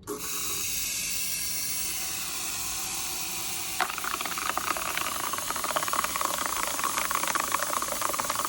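Jewellery pin tumbler running, its small polishing pins churning around the silver ring: a steady hiss, then about four seconds in, a dense, fast rattle of tiny ticks sets in.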